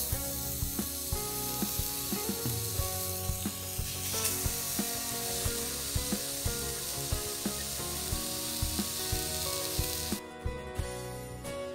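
Fish steaks sizzling as they fry in a non-stick frying pan, a steady hiss that cuts off abruptly about ten seconds in.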